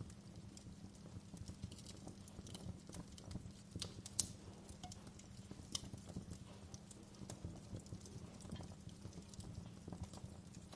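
Wood fire crackling in a fireplace: irregular snaps and pops over a low steady rumble, with a couple of sharper pops near the middle.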